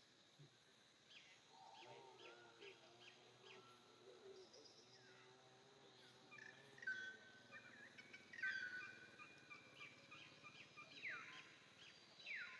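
Faint birdsong: several birds chirping, with short high notes and quick falling whistles throughout, and a lower, drawn-out wavering call in the first half.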